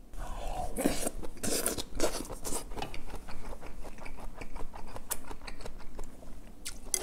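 Close-miked chewing of a mouthful of rice and braised kimchi with pork: a fast run of wet mouth clicks, loudest in the first couple of seconds.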